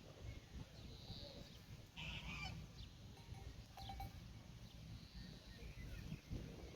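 Countryside farmyard ambience: a few short calls from farm fowl over a low steady rumble, the loudest about two seconds in.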